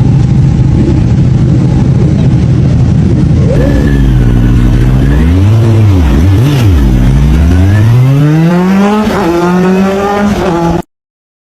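Superbike engine running, then revving: its pitch falls and rises a few times, then climbs steadily as the bike accelerates and holds high. The sound cuts off abruptly just before the end.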